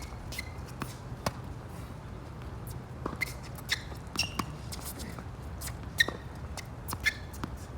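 Tennis rally: irregular sharp racquet hits and ball bounces, with a few short high squeaks, over a steady low rumble of wind on the microphone.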